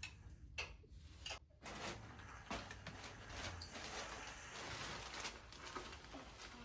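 Faint low room hum with a few soft, scattered clicks and rustles.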